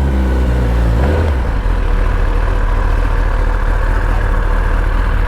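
Superbike engine running, its pitch shifting briefly in the first second, then settling into a steady idle rumble.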